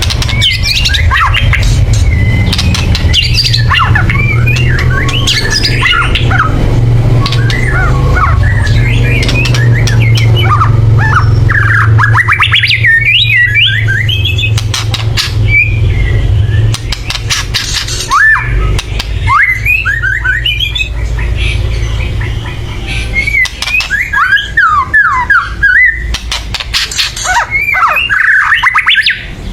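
White-rumped shama (murai batu) calling loudly in dense harsh rattles and chatters (kretekan) mixed with quick gliding whistled notes: the excited, aggressive calling of a bird worked up to high condition. A steady low hum underlies the first half and stops a little past the middle.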